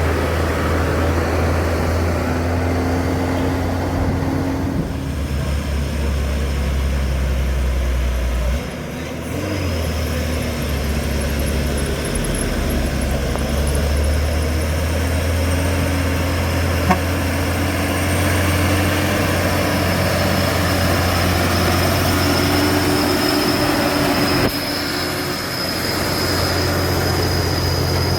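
Heavy truck's diesel engine running with a steady low hum, the level dipping briefly about a third of the way in and again near the end.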